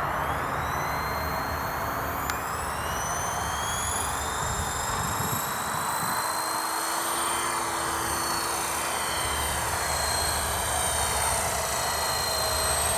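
Helicopter running: a steady rush of engine and rotor noise, with a high turbine whine that rises in pitch over the first few seconds and then holds steady.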